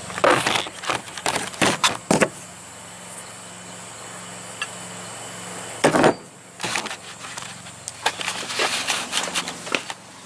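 Irregular knocks, clicks and rattles of someone moving about and handling tools and parts, with one louder knock about six seconds in, over a faint steady low hum.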